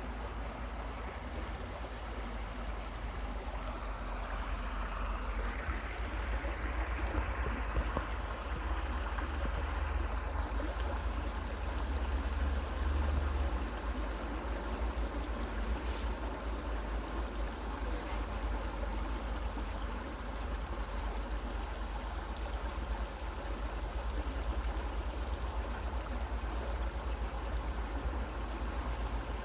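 Creek water flowing steadily, with a low rumble underneath.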